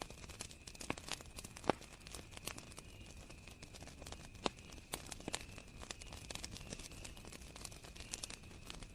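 Campfire crackling: wood burning with irregular snaps and pops, a few sharper ones standing out, over a steady high cricket trill.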